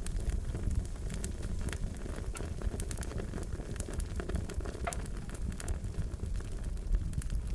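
Fire crackling: a steady low rumble of flames with scattered sharp pops and snaps.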